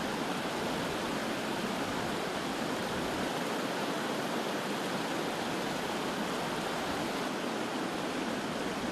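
A creek in flood, its water rushing in a steady, even noise: a stream that is normally a trickle running high after heavy rain.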